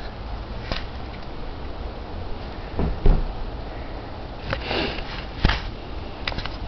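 A handful of short sniffs and breathy rustles, about five spread across the few seconds, over a steady low rumble.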